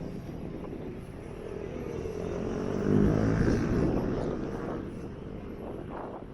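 A motor vehicle passes close by. Its low engine sound builds to its loudest about three seconds in and then fades away.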